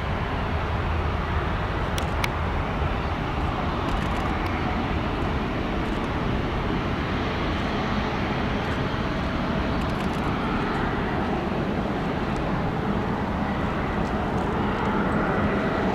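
Jet airliner engines during take-off: a steady, heavy rumble that gets slightly louder near the end.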